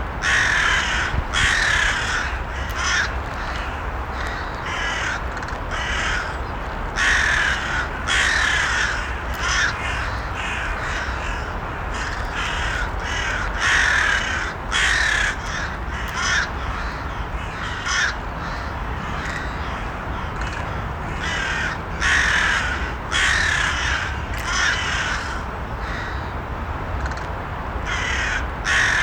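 Crows cawing again and again: harsh calls in short runs of two to four, repeating throughout, over a steady low rumble.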